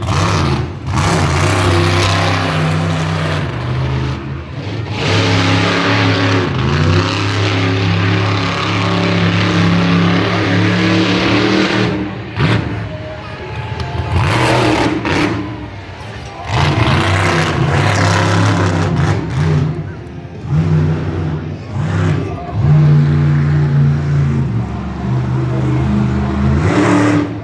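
Monster truck engine revving hard and loud, holding at high revs, then dropping and surging again repeatedly, as in a freestyle run.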